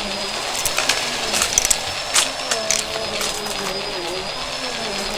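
Vacuum cleaner running, with a steady high whine over the airflow noise and a wavering lower hum, and scattered sharp clicks about one to three seconds in.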